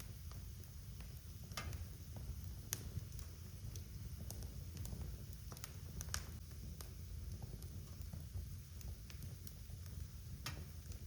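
Wood fire burning in a fireplace, crackling with irregular small snaps and a few sharper pops over a low steady rumble of the flames.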